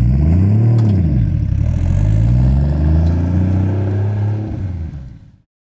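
Nissan 240SX engine revving hard as the car drifts: the pitch rises and falls, then climbs again and holds high. It fades out and cuts off about five seconds in.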